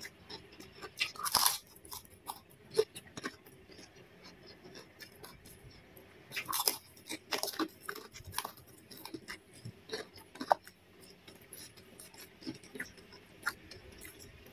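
Close-up eating sounds: crisp crunching bites and chewing of raw cucumber, in short bunches with quiet gaps between, the loudest about a second in and again around the middle.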